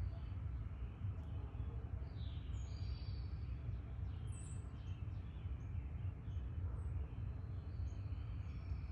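Small birds giving a few short, high chirps and brief gliding calls, over a steady low rumble of outdoor background noise and a continuous high, thin tone.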